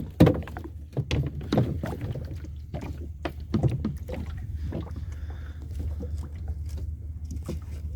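Small fishing boat on the water: a steady low drone with scattered short knocks and splashes, most of them in the first half.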